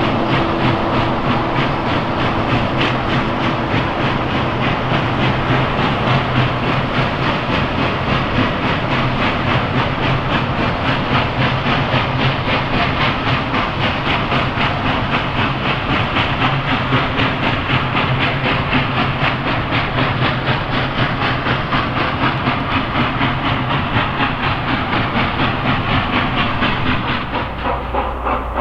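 Steam train running along the track: a fast, even rhythm of chuffs and clatter over a steady low hum, easing off a little near the end.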